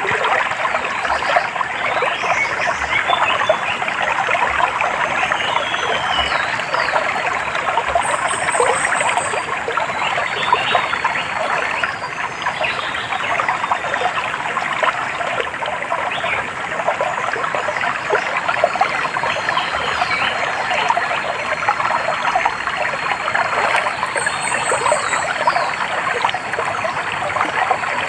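A small stream trickling and babbling steadily over stones, with faint birdsong above it: scattered chirps and a short, high trill about eight seconds in and again near the end.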